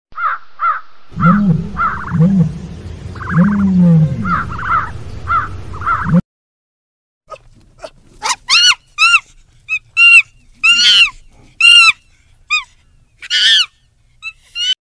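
Animal calls in two runs: first a quick series of short calls with lower, deeper calls among them, then after a brief pause a series of short, high calls that rise and fall in pitch, roughly one or two a second.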